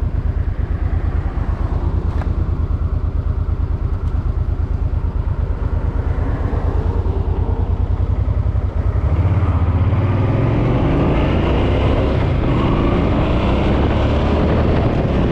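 Suzuki Boulevard M50 V-twin motorcycle engine idling with an even low pulse, then speeding up about nine seconds in as the bike rides off, with wind noise building on the microphone.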